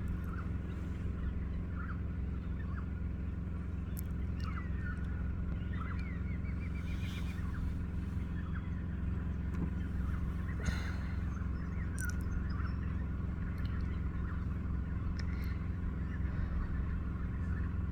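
Birds calling in short, scattered calls over a steady low rumble, with one quick rattling series of notes about seven seconds in.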